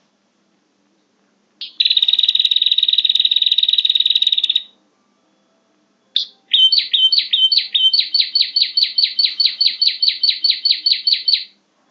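Prinia (prenjak) calls on a bird-lure recording. A dry buzzing trill lasts about three seconds, then after a short pause comes a long run of quick repeated chirps, about five a second.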